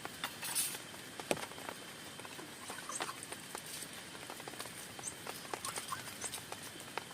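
Raindrops pattering on a tent, an irregular run of sharp taps over a steady hiss of rain, with a louder tap about a second in.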